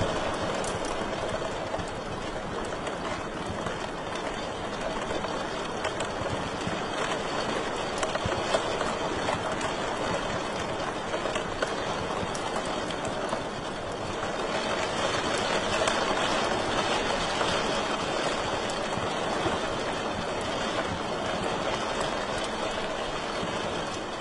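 Wood fire burning in a fireplace: a steady hiss of flames with scattered small crackles and pops, a little louder past the middle.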